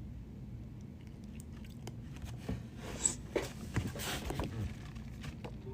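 A person chewing and biting food close to the microphone, with a few short crunches and mouth clicks about halfway through.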